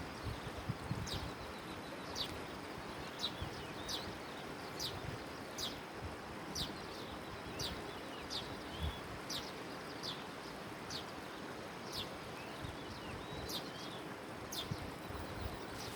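A bird calling with short, high chirps that fall sharply in pitch, repeated about once a second over a steady background hiss.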